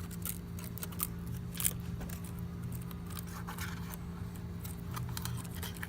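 Adhesive tape being peeled off the iMac's Wi-Fi antenna cables: irregular light crackling, scraping and small clicks from handling, over a steady low hum.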